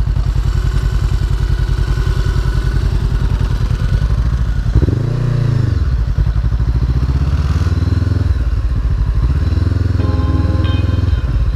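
Honda CB500F's parallel-twin engine running as the motorcycle is ridden. The revs rise and fall about five seconds in, again around eight seconds, and once more near the end.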